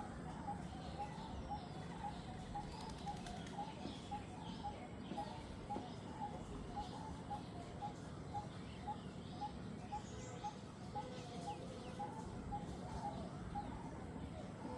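Jungle bird sounds: one bird repeats a short low note about twice a second without a break, while other birds chirp higher up, over a steady background hum of the forest.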